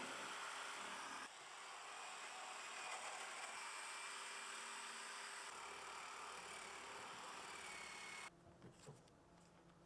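A steady whirring hiss from a running machine, which cuts off abruptly about eight seconds in, leaving a few faint clicks.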